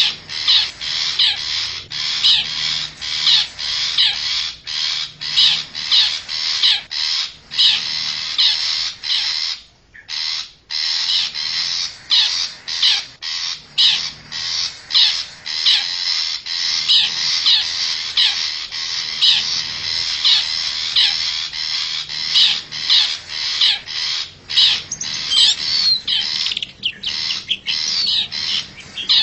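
Long-tailed shrike (cendet) giving harsh, rapidly repeated scolding calls, about two a second, with a brief pause about ten seconds in.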